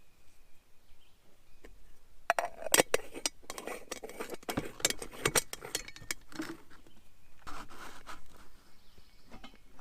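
Cookware and utensils clinking and knocking as they are handled, a run of sharp clicks and clanks starting about two seconds in and easing off near the end.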